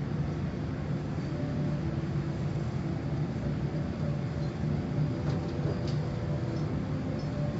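Car wash machinery running steadily: a continuous rumble with a low hum, and a few faint ticks near the end.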